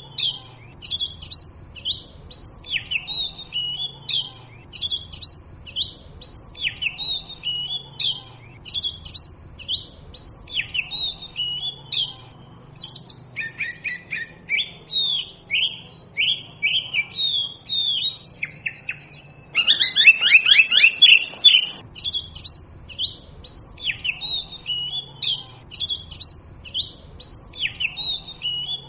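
Oriental magpie robin singing: short whistled phrases repeated about once a second. About two-thirds of the way in comes a louder, rapid run of short downward-sliding notes, the loudest part.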